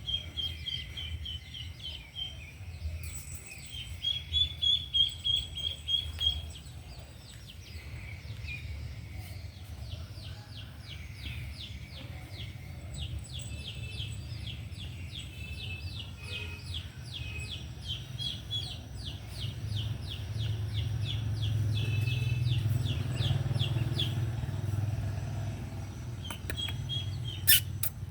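High-pitched bird chirping in quick runs of short calls, over a steady low hum.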